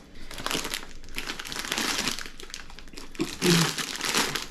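Crisp packet crinkling as it is handled, a dense rustle that swells loudest about three and a half seconds in.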